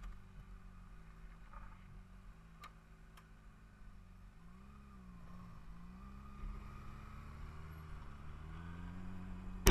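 Car engine running while driving, its pitch dipping about halfway through and then climbing slowly, with faint ticks and one sharp knock right at the end.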